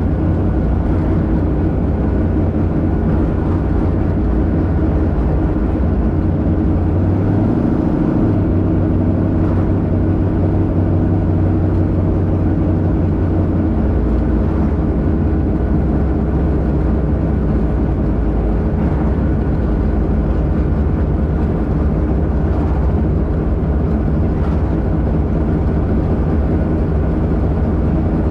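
1972 Plymouth Duster's 408 cubic-inch V8 running steadily while cruising on the road. The engine note changes briefly about eight seconds in, then settles again.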